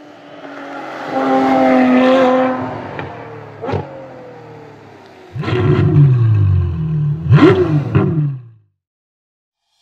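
Sound-effect car engine revving hard, rising and falling in pitch, broken by a few sharp hits with quick pitch sweeps. It cuts off suddenly near the end.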